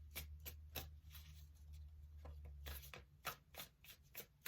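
Faint clicks and flicks of a tarot deck being shuffled and handled. A low hum underneath stops about three seconds in.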